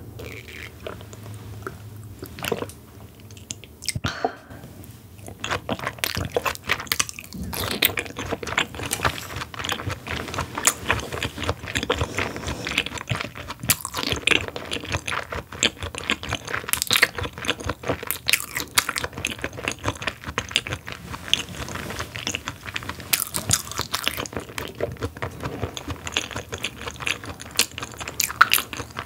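Close-miked chewing of raw Korean beef (hanwoo flower-rib yukhoe), a steady run of wet, sticky mouth clicks and smacks that thickens about five seconds in.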